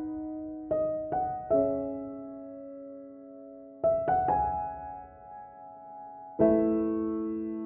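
Background piano music: slow, soft notes and chords struck every second or two, each left to ring and fade.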